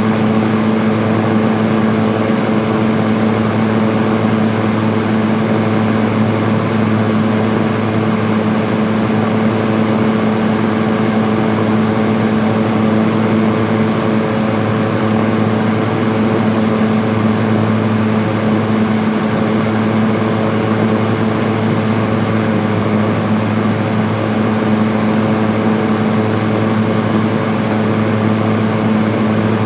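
Electric fan running on high speed: a steady motor hum under an even rush of air, unchanging throughout.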